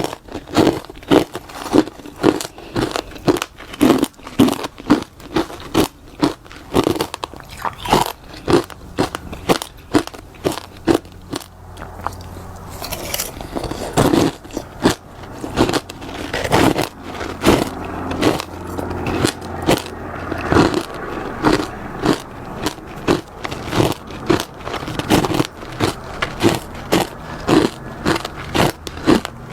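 Close-up crunching and chewing of freezer frost, bite after bite, about one to two sharp crunches a second.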